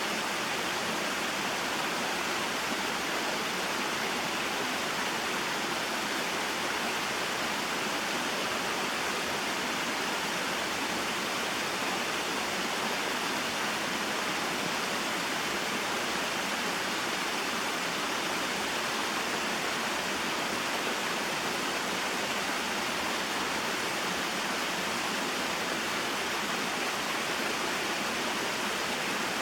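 Small mountain waterfall and stream: water falling and flowing in a steady rushing hiss that does not change.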